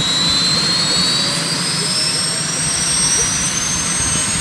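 UH-1 helicopter's T53 turboshaft engine spooling up during start, its high whine rising steadily in pitch over a loud, steady rush of engine noise.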